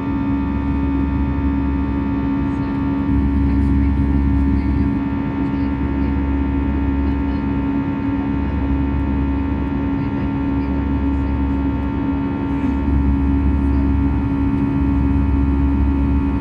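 Airbus A320 cabin noise: steady engine and airflow drone with several constant humming tones, and a deep rumble underneath that swells and drops back every second or two.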